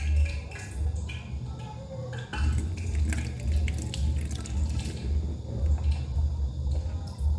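Wet kitchen sounds of liquid dripping, with scattered small clicks, over a low, evenly pulsing bass of background music.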